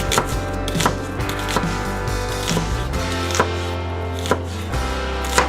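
Kitchen knife chopping an onion on a cutting board, with irregular chops roughly one a second, over background music.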